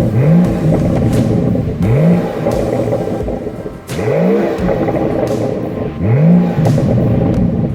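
A performance car engine free-revving through a sport exhaust in short blips, four times about two seconds apart. Each blip is a quick sharp rise in pitch that falls back, with a crack as it begins.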